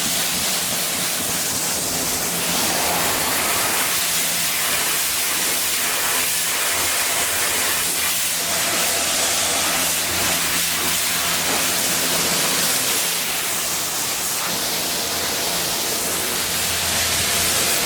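Steady hiss of a water spray hitting a truck's painted body as it is washed, with a steady low hum underneath.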